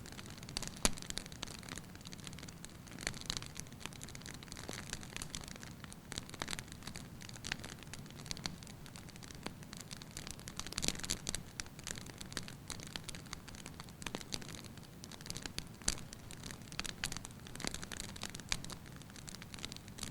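Firewood burning in a fireplace, crackling lightly with irregular small pops and snaps over a soft steady hiss, a few sharper pops standing out.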